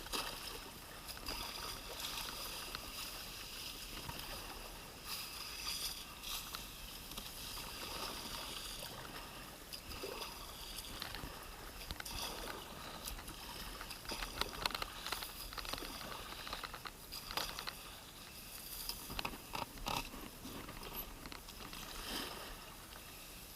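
Kayak being paddled along a creek: paddle blades dipping and splashing, water dripping and sloshing, with scattered clicks and knocks that come thicker in the second half.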